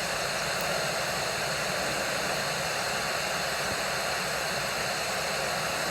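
Steady, even hiss with no distinct events, as from wind or background noise on an outdoor camera microphone.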